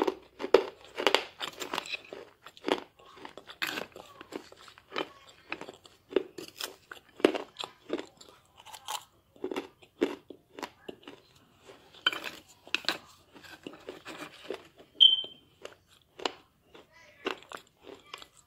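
Close-up mouth sounds of someone chewing dry clay: irregular sharp crunches, about one to three a second, as the brittle clay pieces and powder break between the teeth.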